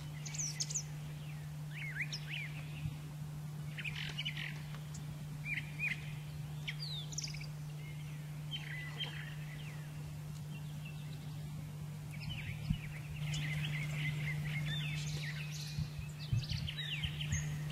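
Small birds chirping in short, scattered calls, quick high notes sweeping up and down, over a steady low hum.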